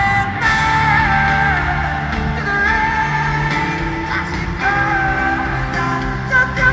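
A female pop singer singing a ballad live with a full band, holding long sustained notes over steady bass and accompaniment.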